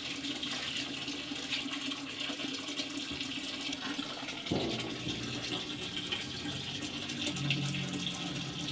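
Water rushing steadily into the tub of an LG TurboDrum top-load washing machine as it fills with hot water, with a steady low hum beneath.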